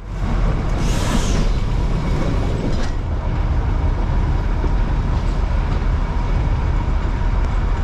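Darjeeling Himalayan Railway toy train running on its 2 ft narrow-gauge track, a steady loud rumble of the coaches heard from the coach window, with a brief hiss about a second in.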